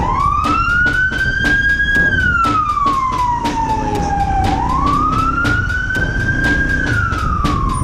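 A wailing siren, its pitch rising and falling slowly twice, over a steady drum beat of about four hits a second.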